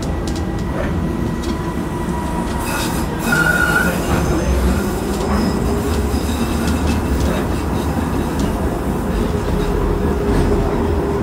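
Docklands Light Railway train running, heard from inside the carriage: a steady low rumble with faint whining tones. A short high squeal comes about three and a half seconds in, and the running noise grows louder from about three seconds.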